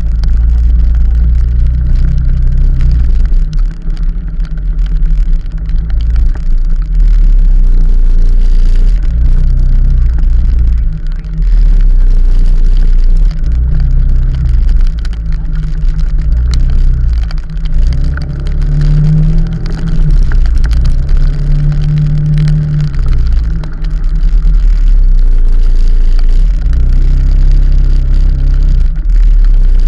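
Loud low rumble of a moving vehicle on a ride, swelling and easing every few seconds.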